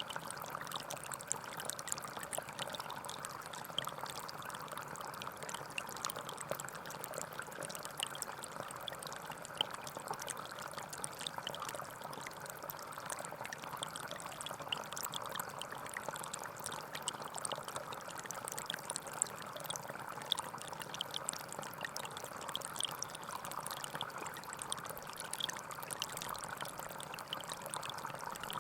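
Small forest stream flowing and trickling steadily, with a constant splashing babble of water over stones.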